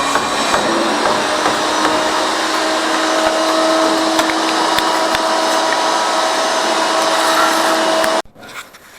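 A power tool running steadily with a continuous hissing cutting noise, which stops abruptly about eight seconds in.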